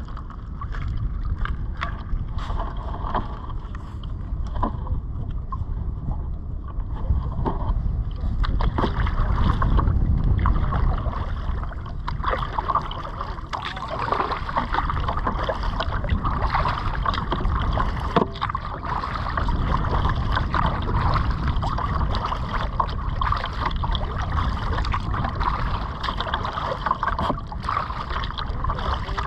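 Kayak being paddled: paddle strokes and splashes in the water, with a low rumble of wind on the microphone.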